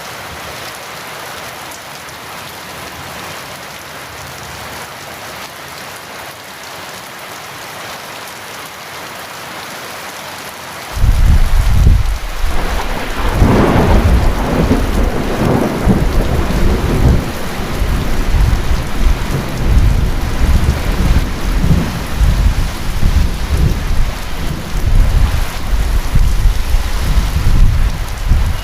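Heavy rain falling steadily. About eleven seconds in, thunder breaks in suddenly with a loud, deep rumble that swells a couple of seconds later and keeps rolling over the rain.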